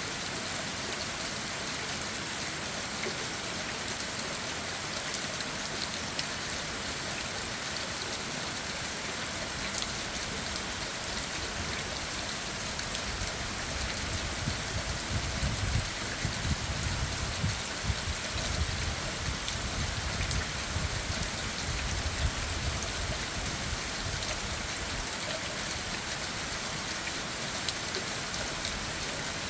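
Steady rain falling on leaves and ground, a constant hiss dotted with the ticks of individual drops. Through the middle, for about ten seconds, a low uneven rumble swells and fades.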